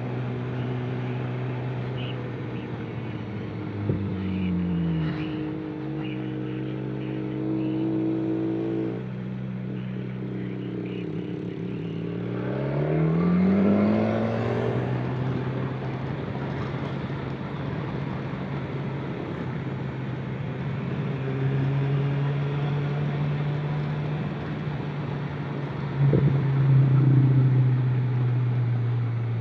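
Motor vehicle engine running steadily, its pitch dipping about four seconds in and rising again around twelve seconds as it revs. A sharp click comes near the end, followed by a louder stretch of engine.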